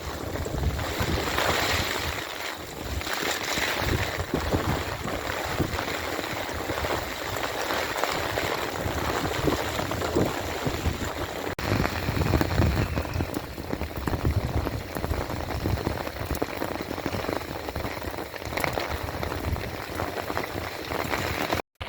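Heavy rain falling and pattering on surfaces, a dense steady hiss full of fine drop impacts, with low rumbles now and then.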